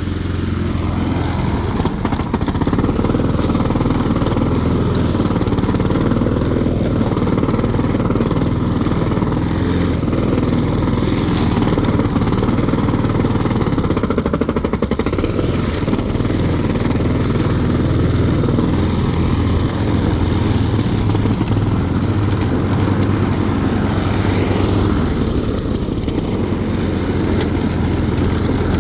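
Walk-behind lawn mower engine running steadily under load as it cuts through tall, overgrown grass.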